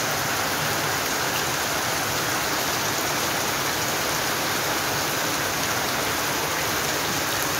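Heavy rain pouring down on a wet road, a steady even hiss with no let-up.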